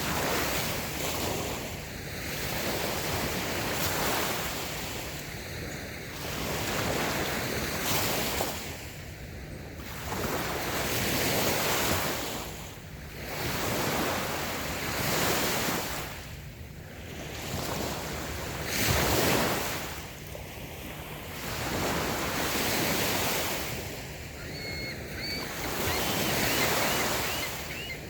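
Small waves breaking and washing up a sandy beach, swelling and falling back every three to four seconds.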